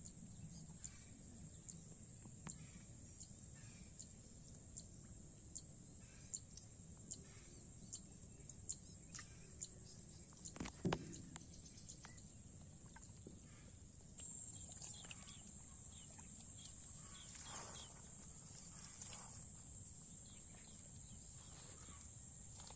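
A high, steady insect shrill, like crickets or cicadas, that swells and eases several times. Scattered light clicks run through it, with one sharper knock about eleven seconds in.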